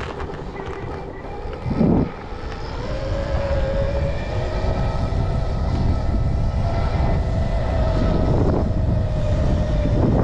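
Stark Varg electric dirt bike's motor whining under way, the whine rising in pitch as it picks up speed and then holding steady, over a low rumble. A brief loud bump about two seconds in.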